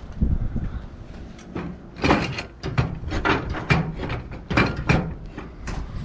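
Items being rummaged and pulled about in a dumpster: a run of sharp knocks and clatters starting about two seconds in, over a low wind rumble on the microphone.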